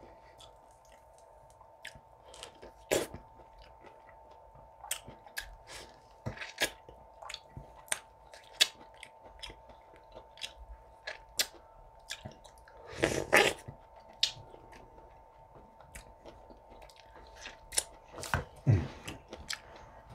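Close chewing of juicy orange slices: a run of wet mouth clicks and smacks, with a longer, louder wet burst about thirteen seconds in.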